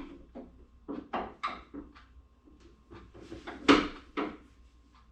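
Short clicks and clunks of metal parts being handled while a hood gas strut's end fitting is worked onto its mount: a quick run of knocks about a second in, then two louder ones near the four-second mark.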